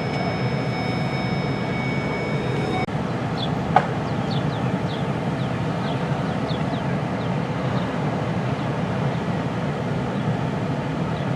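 Steady low rumble like a moving vehicle, with a faint high steady tone that stops abruptly about three seconds in. A single sharp click follows, then a scattering of short, high, falling chirps.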